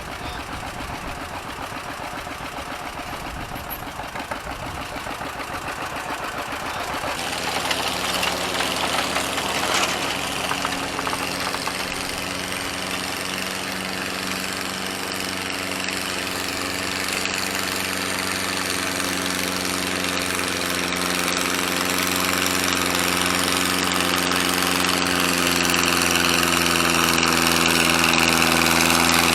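Gas farm tractor engine running at a tractor pull. About seven seconds in, a louder, steady-pitched engine note takes over and keeps growing louder as it comes closer.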